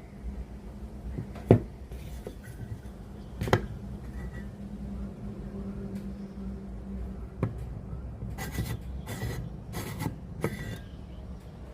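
Handling noises: a few sharp clicks and knocks spread through the first seven seconds, then a quick run of five short scraping rubs, over a faint steady hum that stops partway through.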